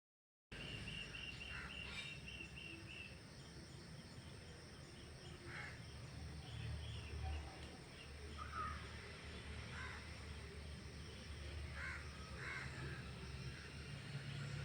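Outdoor ambience with birds calling: a quick run of high repeated notes in the first few seconds, then scattered short calls every second or two over a steady low rumble.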